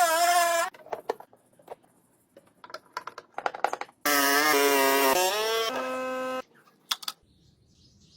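A person's voice, loud and pitched, heard briefly at the start and again for about two seconds in the middle, ending on a held note. In the quieter gap between are scattered light clicks and taps.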